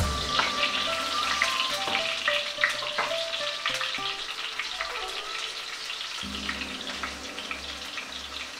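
Onion slices sizzling and crackling in hot oil in a wok, a dense spatter of fine pops. A wooden spoon stirs them at first, with a few knocks against the pan in the first three seconds.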